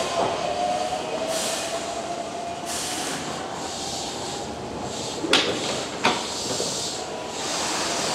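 Keihan 8000 series train standing at the platform just after arrival: repeated bursts of compressed-air hissing, a faint whine that fades out over the first three seconds, and two sharp knocks about five and six seconds in.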